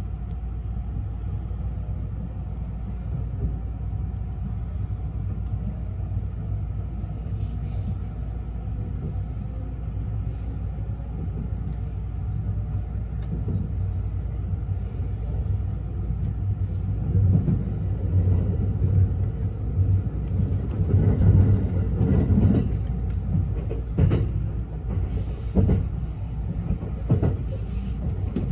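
Running noise inside a limited express electric train leaving a station: a steady low rumble that grows louder as it gathers speed. It is broken by a few sharp wheel clacks over the track in the second half.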